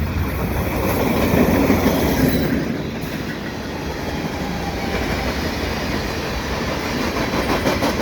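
Fast freight train passing close by: a steady rumble of rolling wheels with a clickety-clack over the rail joints.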